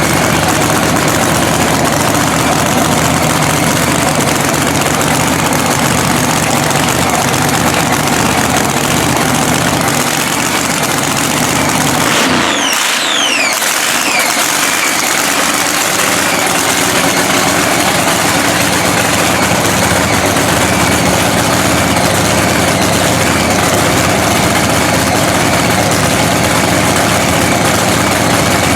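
Supercharged Hemi drag-racing engine running at a loud, steady idle while it warms up after a rebuild. About twelve seconds in the low end briefly drops away and a few high whistling tones fall in pitch.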